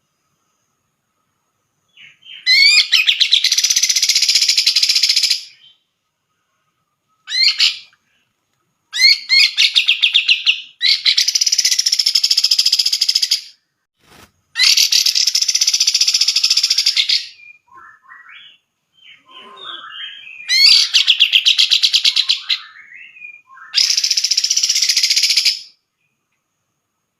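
Cucak jenggot (grey-cheeked bulbul) singing loud, rapid-fire song phrases of two to three seconds each, repeated with short pauses between them. Softer scattered notes fill one gap about two-thirds of the way in.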